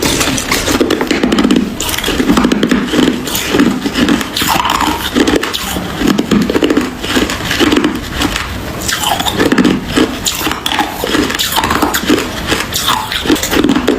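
A person chewing hard ice: a steady run of crunches, roughly one a second, each with crackling clicks.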